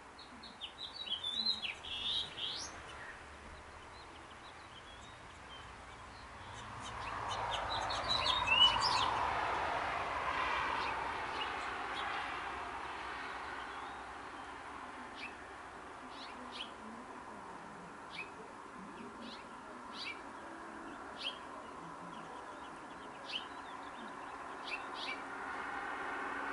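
Birds chirping: a quick run of high, falling chirps in the first few seconds, then single sharp chirps every second or two. A broad engine rush of something passing swells from about six seconds in, is loudest near nine seconds, and fades by about fourteen.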